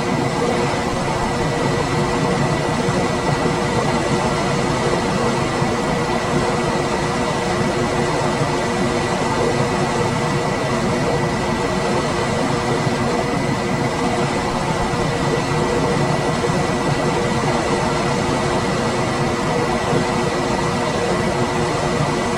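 Room air conditioner running steadily: an even rush of fan air with a low steady hum and a thin high tone held over it.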